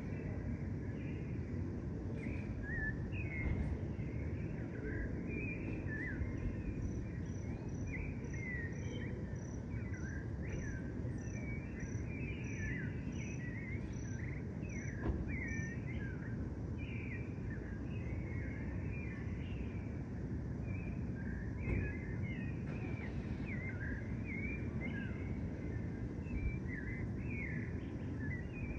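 Many small birds chirping and twittering at once over a steady low rumble of city background noise. From about a quarter to halfway through, a high thin peep repeats evenly, about one and a half times a second.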